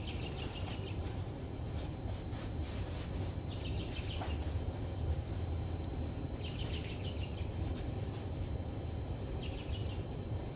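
A bird singing a short, fast trill about every three seconds, over a steady low outdoor rumble.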